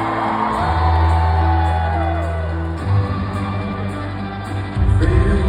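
A live rock band played loud through a concert PA, as heard from the audience, with long held bass notes that change about three times.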